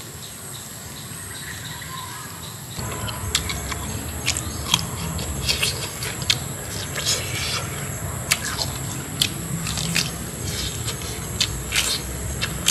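Close-miked eating of grilled pork ribs with lettuce, starting about three seconds in: chewing, biting and lip smacks as irregular sharp clicks over a low mouth rumble.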